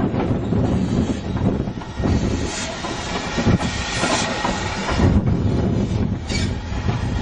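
A train running on the rails: a steady low rumble with wheels clattering over the rail joints, and a few short bursts of hiss.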